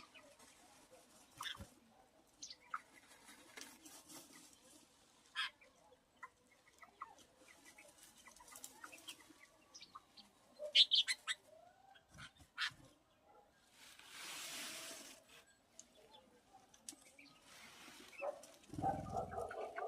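Domestic birds: scattered short calls and clicks, a burst of noise about two-thirds of the way through, and a hen clucking near the end.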